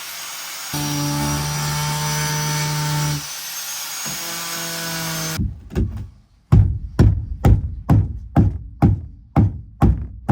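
Angle grinder cutting into the boat's deck core with a steady whine, stopping and restarting briefly, then switched off about three seconds in. From about halfway, a regular run of loud hammer blows, about two a second, pounding out the wood core.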